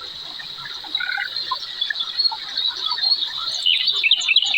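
Frog chorus: a dense, high, steady trilling with many scattered short chirps, growing busier near the end.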